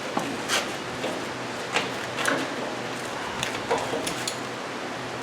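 A few scattered light knocks and clicks of tools and parts being handled, over a steady background hiss.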